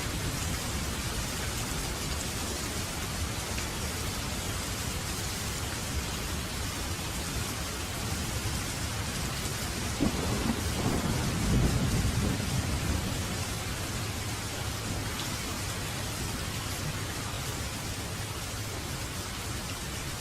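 Steady rain falling in a thunderstorm, with a roll of thunder about halfway through that starts suddenly and rumbles low for a few seconds.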